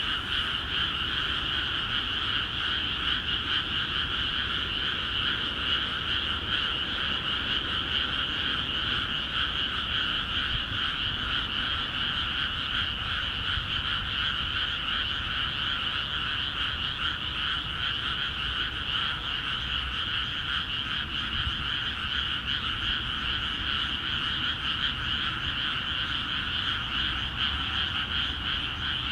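Dense, unbroken chorus of many frogs calling together from newly flooded rice paddies, a steady wall of overlapping calls with no pauses.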